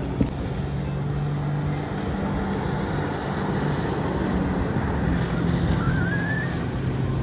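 Motorboat engine running steadily at speed, its hum mixed with rushing wind and water.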